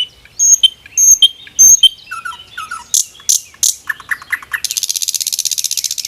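Common nightingale singing one loud song phrase: three clear repeated notes, a run of varied whistles and sharp notes, then a fast, even rattle of many notes a second that stops abruptly near the end.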